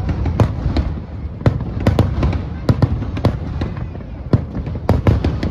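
Aerial fireworks bursting in quick, irregular succession: a dozen or so sharp bangs over a continuous low rumble.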